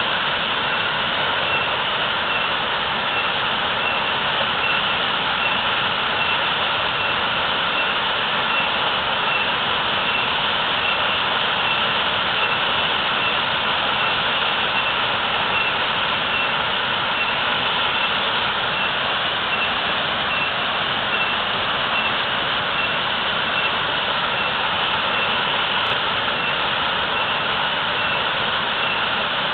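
Waterfall pouring heavily, a steady, even rush of falling water.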